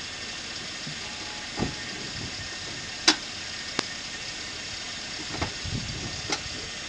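Steady hiss of a car driving in heavy rain, with a few sharp irregular knocks.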